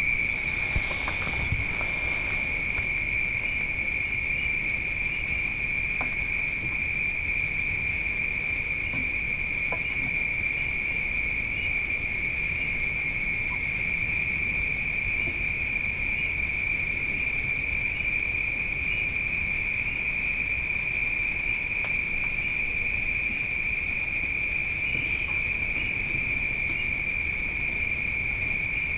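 Night chorus of crickets: a steady, high-pitched trilling that never breaks.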